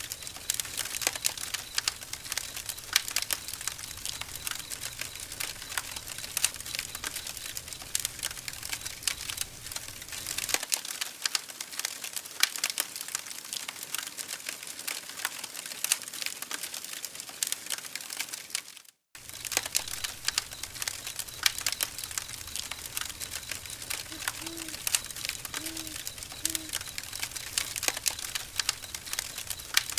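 Campfire crackling: burning wood giving off dense, irregular snaps and pops. The sound cuts out for an instant about two-thirds of the way through, and three short low tones sound near the end.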